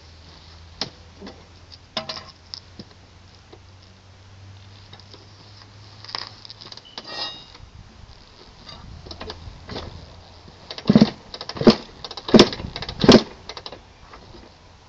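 Kawasaki KX100 two-stroke dirt bike being kicked over from cold: a few light clicks, then four sharp strokes in quick succession, the engine not yet catching.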